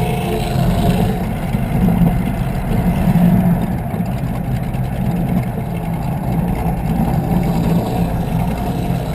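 Engines of a 36-foot Skater catamaran powerboat running steadily underway, a low even drone with a rushing noise over it.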